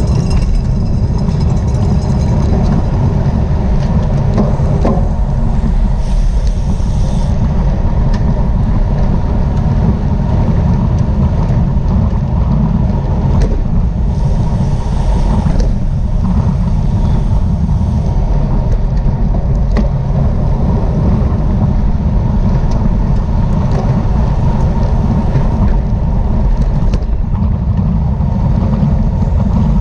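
Steady low rumble of wind blowing over the microphone of a camera moving with a bicycle at race speed, with a few faint clicks.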